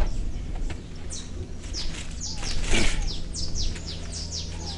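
Birds chirping: a run of short, quick, downward-sweeping high calls. There is one brief louder noise a little under three seconds in, over a steady low rumble.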